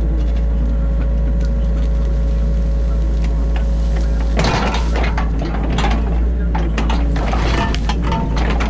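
New Holland Kobelco E50.2 mini excavator running with a steady low drone, heard from inside the cab. About four seconds in, a steady whine stops and a run of clattering and scraping knocks begins as the machine works in the ditch.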